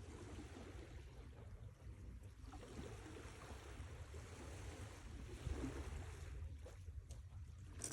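Sea waves washing ashore: the hiss of a wave swells from about two and a half seconds in and ebbs near the end, over a steady low rumble.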